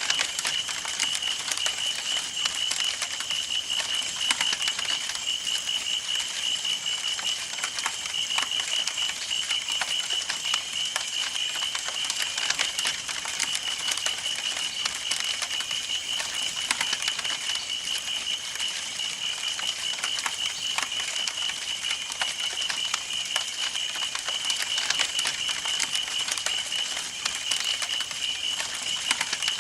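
Campfire burning, with dense crackling and popping over a soft hiss. A steady, high-pitched, rapidly pulsing chirp runs behind it and fades briefly near the quarter mark.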